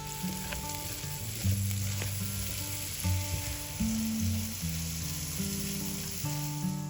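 Food frying in a hot pan: a steady sizzle with a few light utensil ticks, over soft background music.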